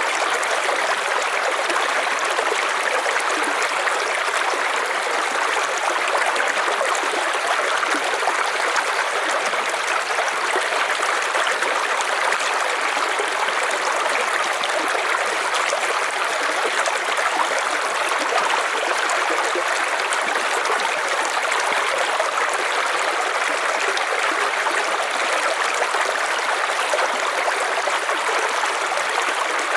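River water flowing and rushing steadily, an even splashing and gurgling rush with no breaks or single events.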